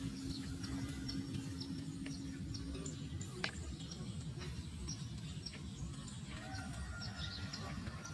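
Short high bird chirps repeating several times a second over a steady low noise, with one sharp click about three and a half seconds in.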